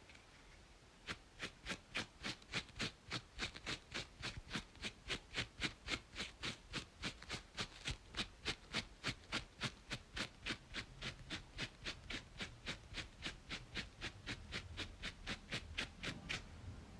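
Steady, rhythmic scratching on a braided scalp at about three quick strokes a second. It starts about a second in and stops just before the end.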